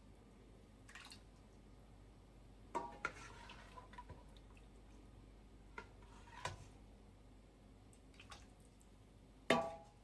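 Scattered kitchen handling sounds: a few light knocks and clinks of dishes or utensils, the two loudest about three seconds in and near the end, each with a short ringing tone.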